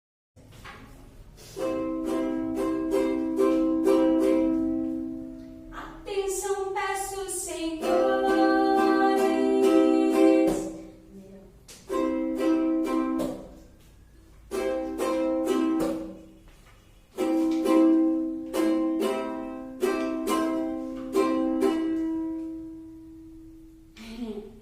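Music: a small plucked string instrument, ukulele-like, strummed in chords, in short phrases that ring out and fade between strums.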